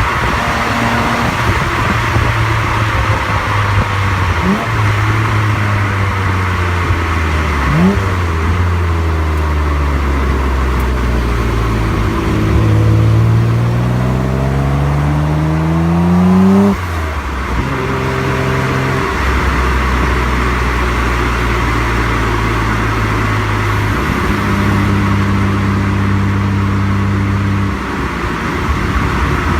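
Nissan Skyline GT-R R33's RB26DETT twin-turbo straight-six heard through its exhaust while driving. It mostly runs at steady cruising revs, pulls up in pitch through a gear for several seconds past the middle and then drops off suddenly, and near the end a steady stretch drops away again, over a constant rush of road and wind noise.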